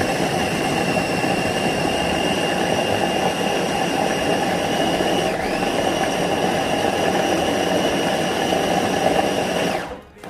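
Electric blender motor running steadily as it blends onions, garlic, mint leaves and olive oil into a marinade. Its whine dips briefly in pitch about five seconds in, then recovers, and the motor cuts off near the end.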